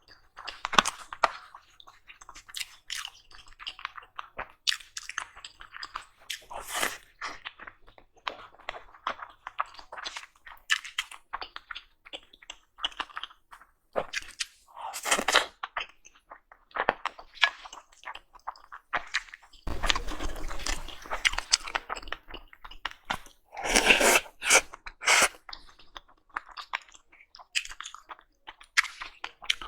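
Close-miked chewing and crunching of food, mukbang style: a run of short, irregular crunches and mouth clicks, with a denser noisy stretch of about two seconds a little over twenty seconds in and louder crunches a few seconds later.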